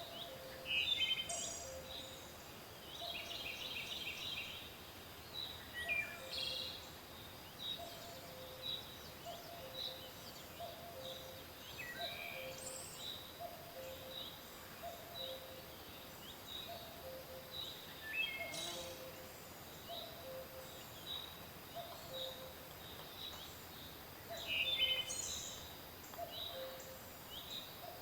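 Several birds singing in a forest. One bird repeats short high chirps about once a second throughout. A low two-note call repeats steadily underneath. Louder, falling song phrases break in a handful of times, about a second in, at four, six, twelve, eighteen and twenty-five seconds.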